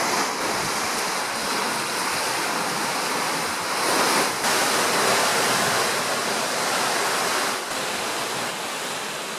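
Steady rushing noise, louder for a moment about four seconds in.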